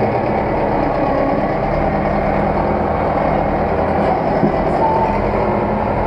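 Zetor tractor's diesel engine running steadily at working revs, a continuous even drone.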